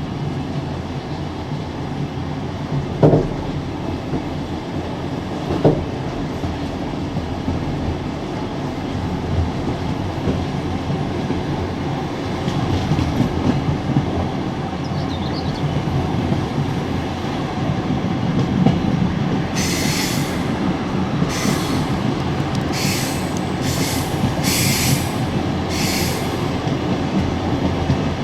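Passenger train carriage running along the track, a steady rumble of wheels on rails heard from inside the coach, with two short knocks a few seconds in. In the last third comes a string of short hissing bursts, about one a second.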